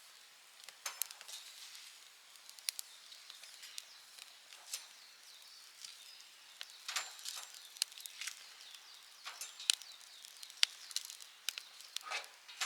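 Wood fire crackling as it catches: irregular sharp pops and snaps, denser in the second half.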